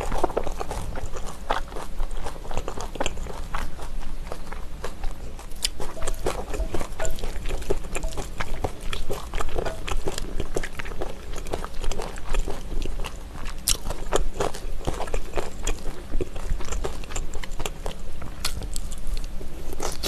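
Close-miked chewing and crunching of raw trout mixed with shredded vegetables in chili sauce: a dense run of wet mouth sounds and crisp crackles. Chopsticks click and scrape in a glass bowl as the mixture is stirred.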